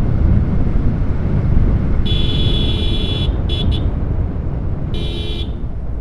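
Vehicle horn honking over the steady wind and road rumble of a moving motorcycle. One long honk comes about two seconds in, then two quick short toots, then another honk near the end.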